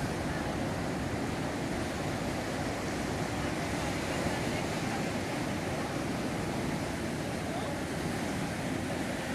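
Surf from a mar de leva (a heavy ground swell) breaking on a sandy beach: a steady, unbroken rush of waves.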